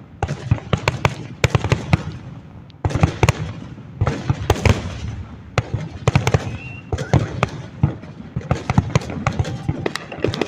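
Aerial fireworks going off in rapid succession: a dense run of overlapping booms and crackling pops with almost no gaps, easing briefly for a moment about two seconds in and then building again.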